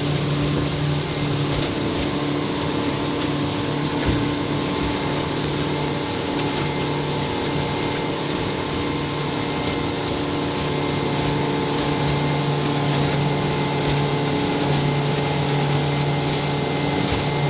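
Motorboat engine running at a steady cruise, a constant drone mixed with the rush of water and wind as the boat moves.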